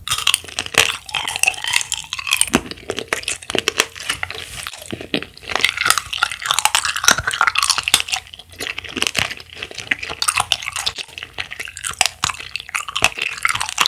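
Close-miked chewing of food, a dense run of wet mouth sounds and crisp crunching clicks.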